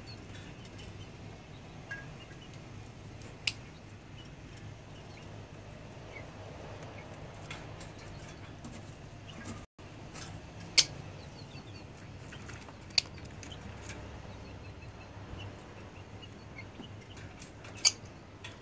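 Poultry yard ambience: chickens and other birds with faint short chirps and a few sharp, brief calls, over a steady low hum.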